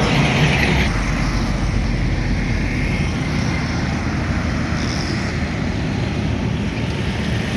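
Busy road traffic: a steady rumble of vehicle engines and tyre noise from passing trucks, buses and other vehicles.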